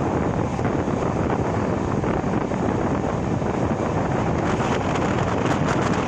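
Steady rush of wind and running noise of a moving express train with LHB coaches, heard from on board, with a few faint light crackles near the end.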